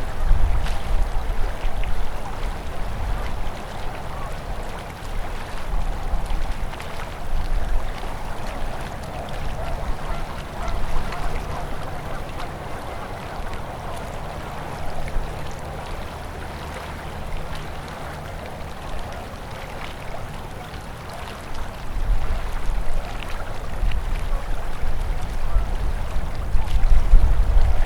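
A winter river flowing steadily past ice, a continuous rush of water. A low rumble comes and goes under it, heaviest at the start and again from about three quarters of the way through.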